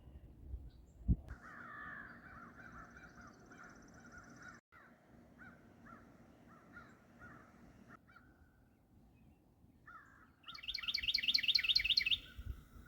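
Wild birds calling, ending in a loud, rapid run of high repeated notes a little over two seconds long. There is a short thump about a second in.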